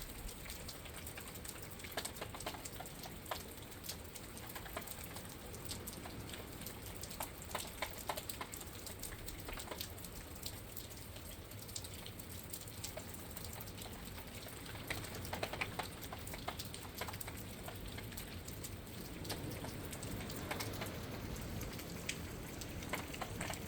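Rain pattering steadily outside a window, with scattered drops ticking sharply against it, and a low rush of wind that swells in the last few seconds.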